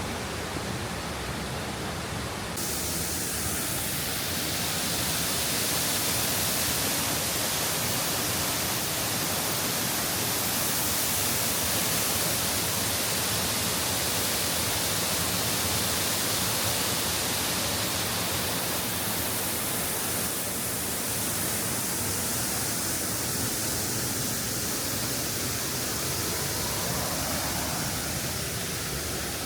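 Waterfall water rushing: a steady, even hiss. It turns brighter and a little louder about two and a half seconds in.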